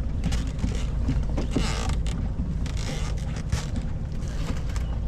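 Steady low wind rumble on the microphone, with short rustling noises about one and a half and three and a half seconds in.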